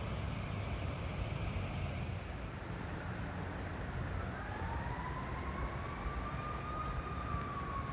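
A distant emergency-vehicle siren wailing, rising slowly in pitch from about halfway through and then beginning to fall, over a steady low rumble.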